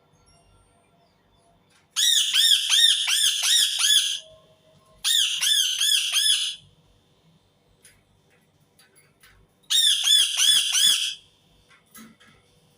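Indian ringneck parakeet (rose-ringed parakeet) calling: three loud runs of rapid, repeated harsh squawks, each run lasting one to two seconds, with short pauses between.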